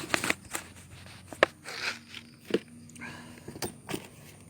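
Stray cats crunching dry cat food: irregular crunches and sharp clicks.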